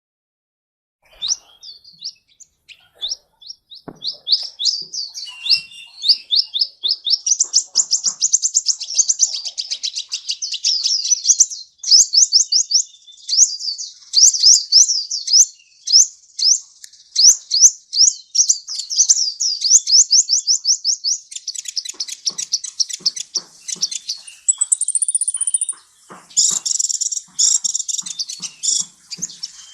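Sunbird (Indonesian 'kolibri') singing a fast, unbroken run of high, thin chirps and trills, starting about a second in. A brief higher whistled note comes near the three-quarter mark, followed by busier chirping.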